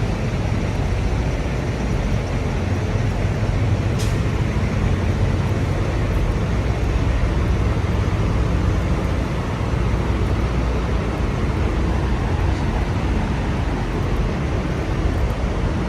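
Steady low rumble of idling diesel trucks, with a single sharp click about four seconds in.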